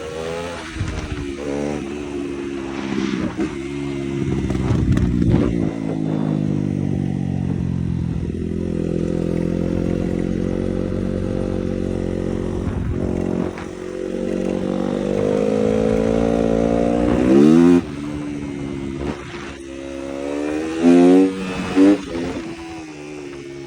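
Yamaha 250 YZF motorcycle engine being revved, its pitch rising and falling. It holds steady for several seconds mid-way, climbs to a sharp peak, then gives two short, loud throttle blips near the end.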